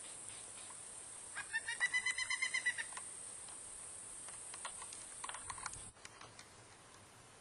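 Pileated woodpecker nestling calling from the nest hole, begging for its parent: a rapid run of high notes lasting about a second and a half, then a short fainter burst a few seconds later.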